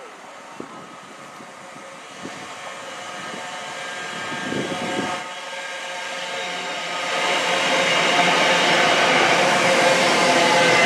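GWR Hitachi Intercity Express Train approaching and passing through a station, growing steadily louder as it nears. Its wheels on the rails and running gear make a rising rush, carrying several steady whining tones that strengthen over the second half.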